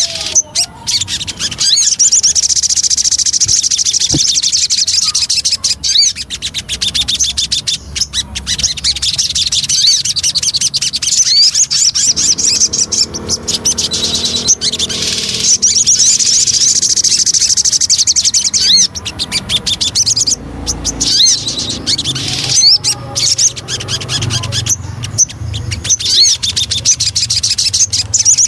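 A sogon songbird singing a long, fast, high-pitched chattering song of rapid chirps, broken by a few short pauses; a lure recording used to set other sogon birds singing.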